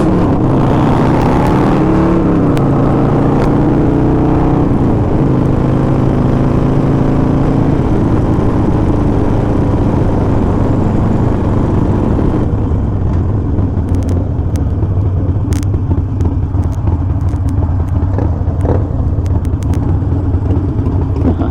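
Harley-Davidson Sportster Forty-Eight's air-cooled V-twin running loud through an SP Concepts Lanesplitter exhaust. Its pitch rises and falls over the first few seconds as it is revved and pulls away, then it runs steadily at a low pitch.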